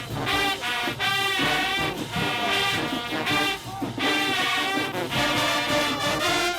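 High school marching band's brass section playing a tune in loud, punchy phrases.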